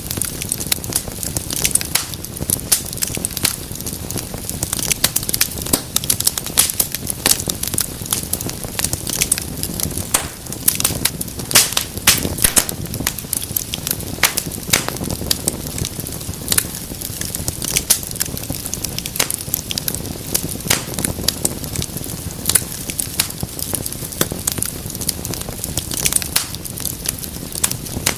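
Wood fire burning in a fireplace: dense, irregular crackles and pops over a steady low hiss of flames.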